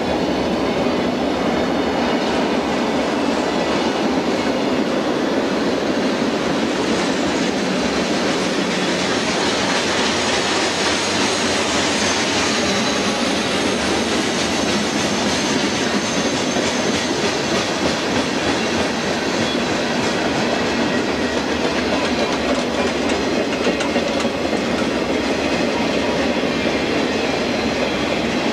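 Cars of a CSX mixed freight train rolling past: a steady wash of steel wheels on rail with clatter over the rail joints, slightly hissier in the middle.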